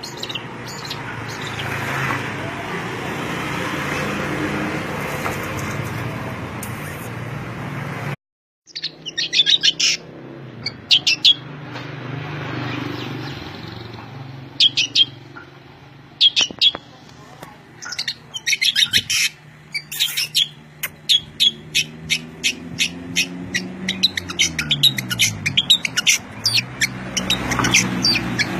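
Small songbirds chirping in quick, sharp, repeated calls over a low background hum. The sound drops out completely for a moment about eight seconds in.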